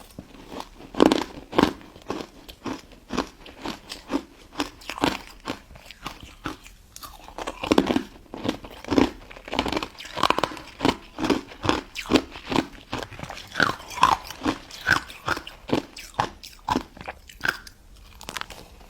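Close-up biting and chewing of a pink crystal ice dessert: a steady run of crisp crunches, about two a second, as the icy crystals break between the teeth.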